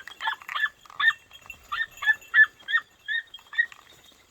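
Podenco puppies giving tongue in a rapid run of short, high-pitched yelps, three or four a second: the hound's baying (latido) while hunting rabbit.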